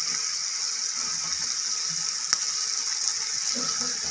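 Banana and potato pieces with spices sizzling in mustard oil in a kadai, a steady hiss, with one sharp tap about two seconds in.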